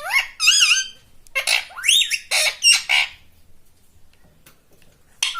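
Pet parrot calling: a run of loud, high squawks with pitch glides over about three seconds, a pause, then another short call near the end.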